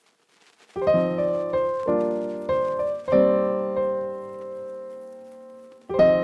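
Piano music: near silence, then a piano phrase begins about a second in with struck notes and chords that die away, one long held chord in the middle, and a new phrase near the end.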